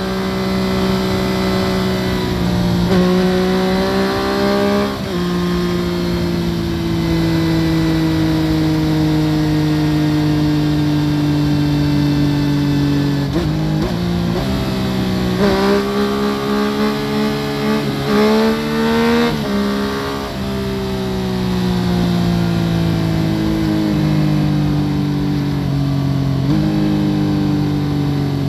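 2014 Yamaha FZ-09's 847 cc inline three-cylinder engine through an Akrapovic full exhaust, heard from under the seat while riding. The revs step through gear changes, fall slowly for several seconds as the bike rolls off, then jump up quickly a few times in the middle and again near the end.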